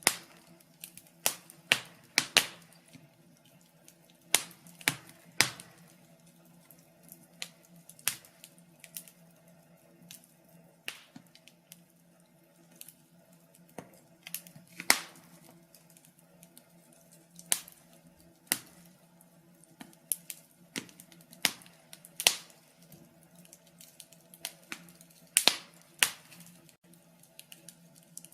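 Wood fire in a fireplace crackling, with irregular sharp pops; the loudest come about two, fifteen and twenty-five seconds in.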